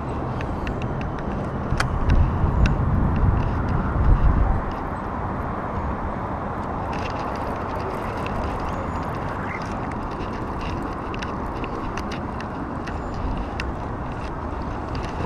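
Wind buffeting the microphone in a steady noisy rumble, with heavier gusts about two to four seconds in.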